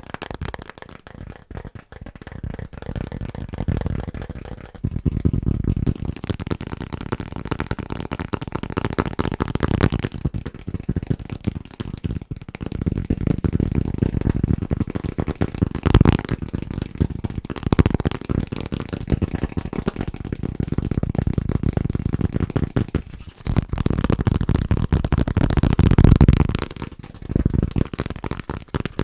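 Fast, aggressive tapping on assorted household objects in rapid, dense strokes. The object and its sound change abruptly several times.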